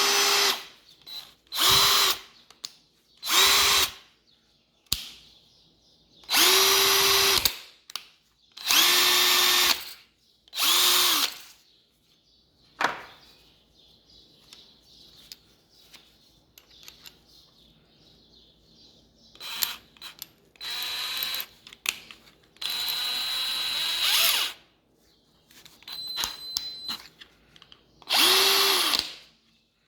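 Parkside impact drill run in short bursts of about a second each, the trigger pulled and released, with the motor winding down after every burst. About ten runs in all, with a quieter stretch of small handling noises in the middle and a slightly longer run near the end.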